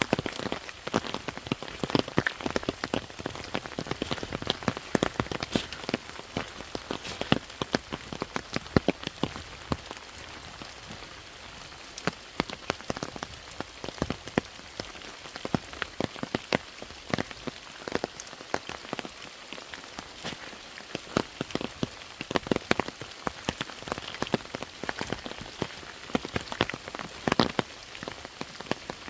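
Rain falling steadily, with many separate drops striking close by in a dense, irregular patter over a steady hiss.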